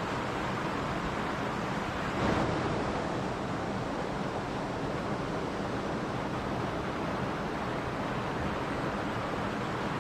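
Mountain stream rushing and burbling over rocks in a steady, even flow, with a brief slight swell a little over two seconds in.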